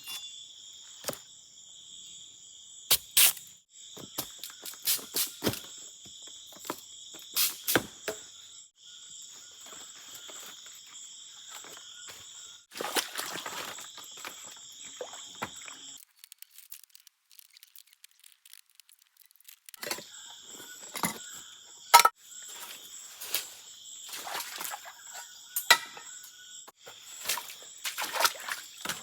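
Steady high-pitched chorus of tropical forest insects, broken off abruptly several times, with scattered sharp clicks and cracks. The loudest crack comes about 22 seconds in.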